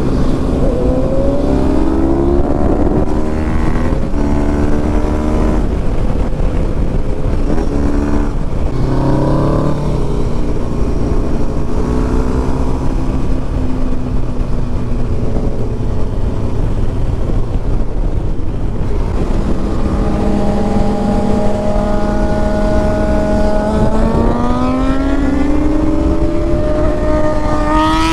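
Motorcycle engines running at changing revs while riding. Toward the end one engine climbs steadily in pitch as it accelerates, and another revs up sharply at the very end.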